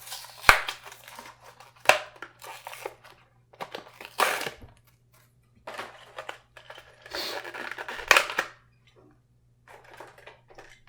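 Plastic blister packaging of a die-cast toy car being torn and pried open, with crinkling and tearing rustles broken by a few sharp snaps.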